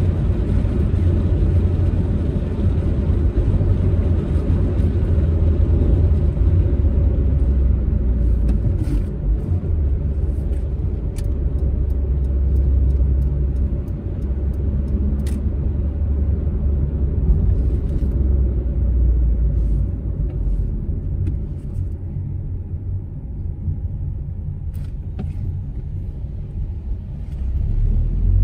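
Proton Saga's engine and road noise while driving: a steady low rumble that eases off somewhat in the last third and swells again near the end.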